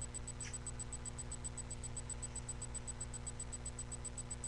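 Steady low electrical hum and hiss from the webcam's microphone, with a fast, even high-pitched ticking running through it. A brief faint rustle about half a second in.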